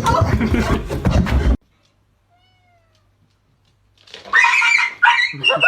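A cat meowing: two loud, drawn-out meows about four and five seconds in, after a loud noisy stretch that cuts off suddenly and a short near-silence.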